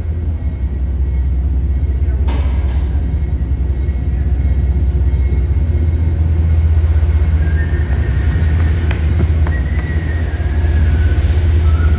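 Amtrak GE Genesis P32AC-DM diesel locomotive running with its train, a steady loud low rumble. A brief hiss comes about two seconds in, and faint high squeals and a few clicks follow in the second half.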